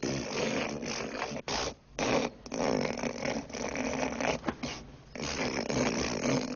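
A man hawking phlegm up from the back of his throat, gathering a big gob to spit. It comes as a long, rough, rasping snort in several pushes, with short breaks between them.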